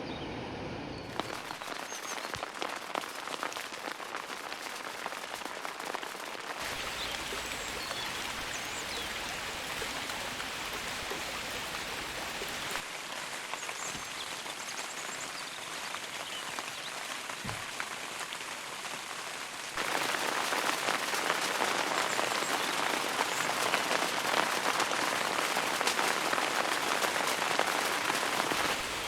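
Rain falling steadily on surfaces. The sound shifts abruptly a few times and is loudest in the last third.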